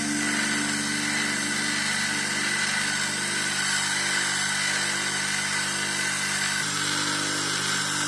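Electric stone-grinding machine running steadily with a constant whine, shaping an agate stone.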